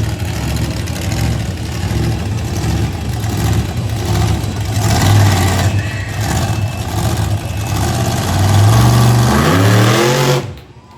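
Monster truck engine running loud and revving, its pitch climbing over the last couple of seconds before the sound cuts off suddenly near the end.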